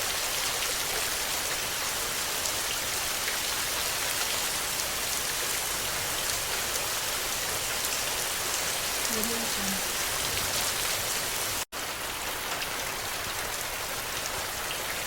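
Steady rain falling, an even hiss with fine drop patter. Near the three-quarter mark the sound drops out for a split second and resumes.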